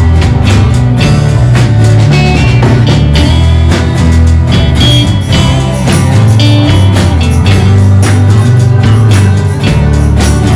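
Live worship band playing an instrumental passage, loud and steady: drum kit keeping a regular beat under held bass notes, with a guitar-like lead line on top.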